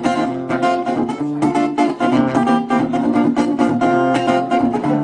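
Guitar strumming in an instrumental break of a song, with no singing: quick, even strokes.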